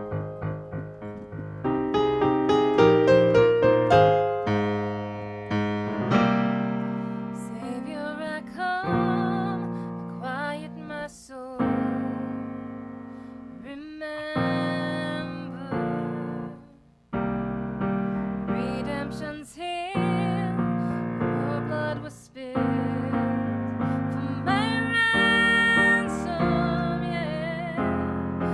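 Piano playing a slow piece, joined about eight seconds in by a higher melody line with vibrato.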